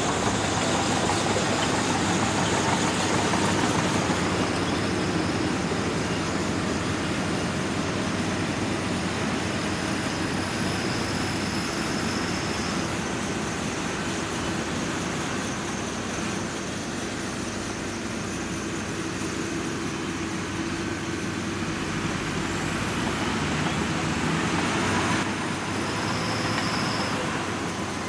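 Shantui DH17C2 crawler bulldozer's diesel engine running steadily while working, with two brief faint high squeaks, one before the middle and one near the end.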